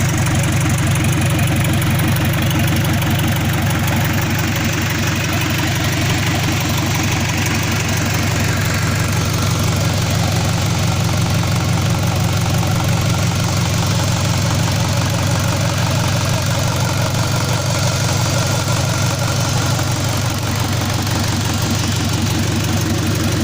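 Mitsubishi Colt Diesel PS100 truck's diesel engine idling steadily with an even, rapid pulse; the engine is due for an overhaul.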